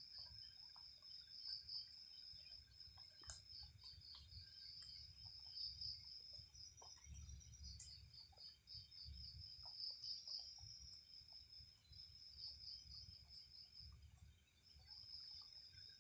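Faint night insect chorus: crickets giving a steady, high-pitched, rapidly pulsing trill, over a low fluctuating rumble.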